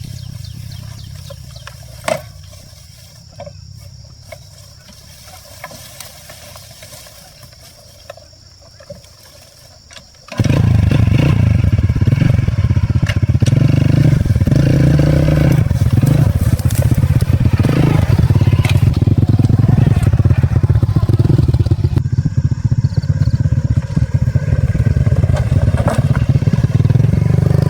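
An engine running loudly and steadily, with some clatter, which cuts in abruptly about ten seconds in. Before it there is a quieter stretch with a few sharp clicks.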